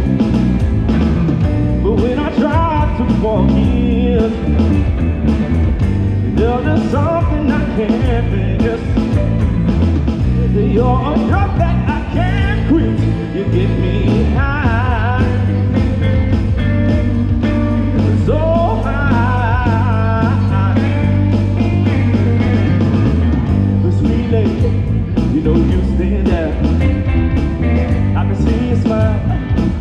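Live band music: a singer's voice over electric guitar, bass and drums, in a rock and blues style.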